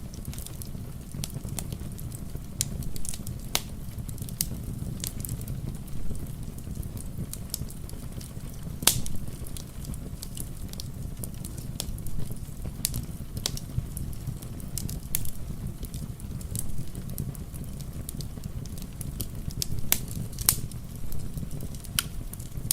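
Wood fire in a fireplace crackling, with irregular sharp pops every second or so, the loudest about nine seconds in and around twenty seconds in, over a steady low rumble mixed with rain.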